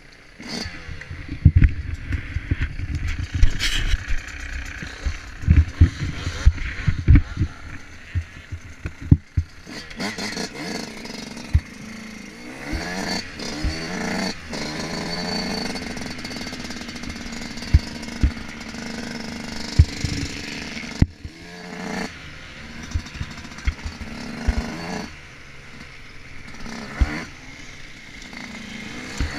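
Motocross bike engine heard from an on-board camera, revving up and down in pitch through the gears under hard throttle. Repeated short low thumps run through it, most often in the first third.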